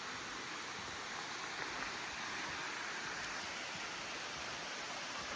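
Waterfall splashing down into a pool: a steady, even rush of falling water.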